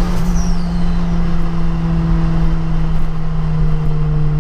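Turbocharged 2.0 four-cylinder engine of a 2003 VW Polo heard from inside the cabin, running at a steady pitch while cruising, over road noise.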